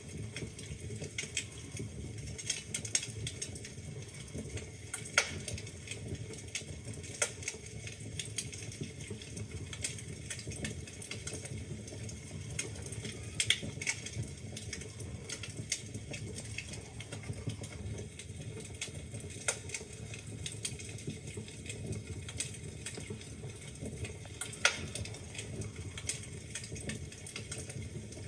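Wood fire burning in a fireplace, crackling steadily with irregular sharp pops and snaps from the logs over a low, soft rumble of the flames.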